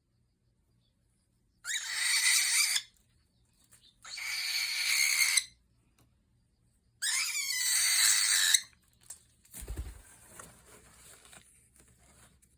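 Cockatiel hissing in three long, breathy bursts, each over a second long, the warning hiss of a bird that feels threatened. A dull thump follows, then faint rustling.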